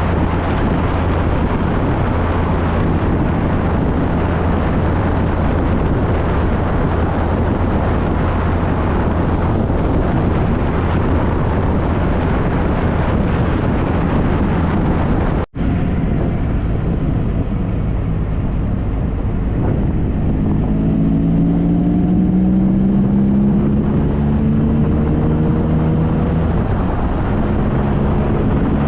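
Triumph Trophy SE's three-cylinder engine running under way, with steady wind and road noise. There is a brief dropout about halfway through, after which the engine note rises in pitch as the bike accelerates.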